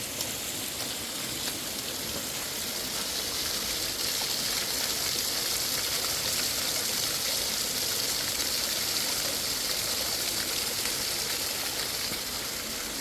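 Steady rush of flowing water from a mountain stream, a little louder from about four seconds in.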